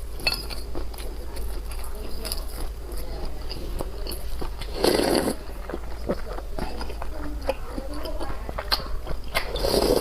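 Close-miked eating sounds: chewing and biting with many small wet mouth clicks, and a louder, longer rush of sound about halfway through.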